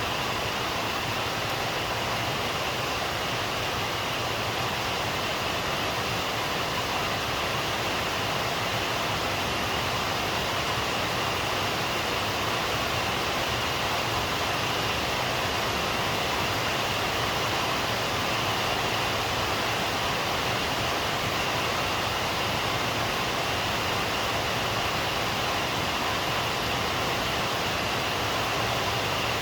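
Steady heavy rainfall, an even hiss with no pauses and no thunder.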